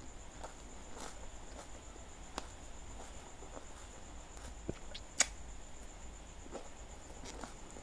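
Close-miked mouth sounds of someone chewing spicy instant noodles with the mouth closed: soft scattered wet clicks and smacks, with one sharp click about five seconds in. A faint steady high-pitched whine runs underneath.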